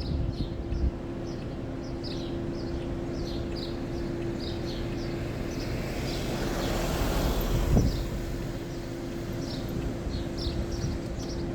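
Steady hum and rumble of a slow-moving vehicle, with another vehicle swelling past about seven seconds in. Short high chirps repeat two or three times a second throughout.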